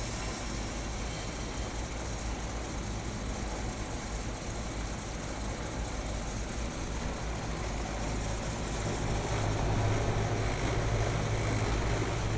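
Rooftop air-conditioning / heat pump equipment running with a steady low mechanical hum, which grows stronger about nine seconds in.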